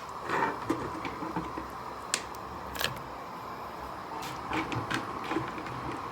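Kitchen utensil handling at a pot of stew: a few sharp clicks and knocks, over a steady hiss.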